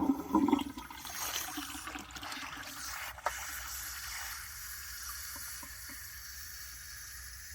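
W & J Lawley 402 cast iron cistern being flushed: water trickles and hisses through it rather than rushing, the weak flush of a cistern that is not flushing properly. A single sharp knock about three seconds in.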